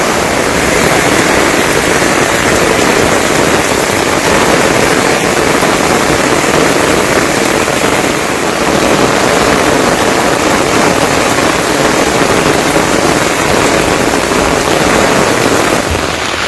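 A loud, steady rush of falling water, even and unbroken, with no pitch or rhythm.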